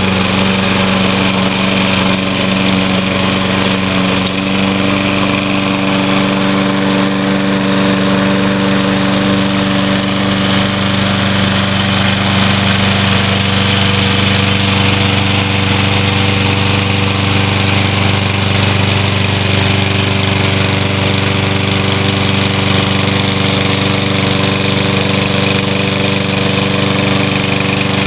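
Toro Recycler lawn mower's 149 cc overhead-valve Kohler engine running steadily at a constant speed.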